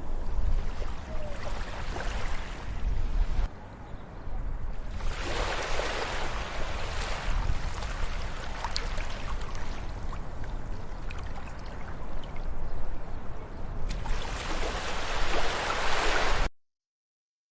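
Ocean waves breaking and washing up a beach. The surf swells and eases several times, loudest after about five seconds and again near the end, then cuts off suddenly to silence.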